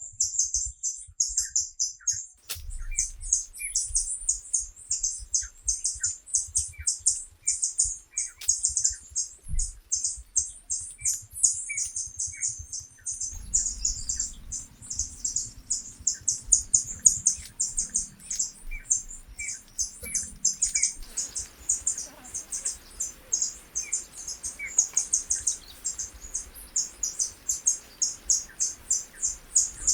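Fast, continuous high-pitched chirping from forest wildlife, several chirps a second, with fainter lower pips among them.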